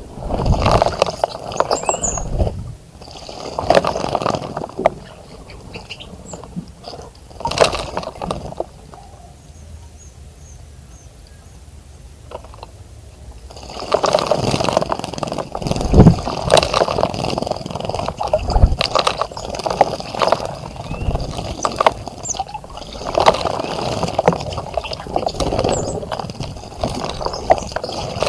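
Birds splashing in a birdbath: irregular bursts of splashing water, with a quieter lull of several seconds in the middle, and a few faint high chirps.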